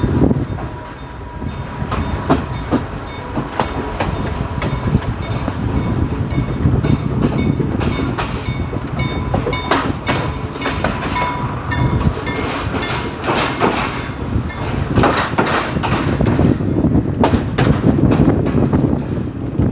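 Local passenger train running on the track, heard from on board: a steady low rumble with irregular clicks and clanks from the wheels and carriages.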